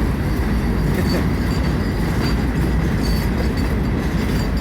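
Freight cars of a rock train rolling past on the rails, shoved from the far end by the locomotive: a steady heavy rumble of wheels on track. A faint high wheel squeal comes and goes.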